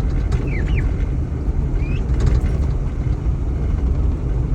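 Steady low rumble of a car driving, heard from inside the cabin, with a few short high bird chirps about half a second in and again near two seconds.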